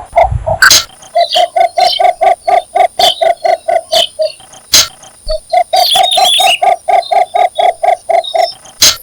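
Cinnamon bittern's mating call: a long series of short, low, even notes, about five a second, breaking off briefly a little before the middle and then going on. A few sharp clicks cut through the series, and a brief higher scratchy sound comes about two-thirds of the way in.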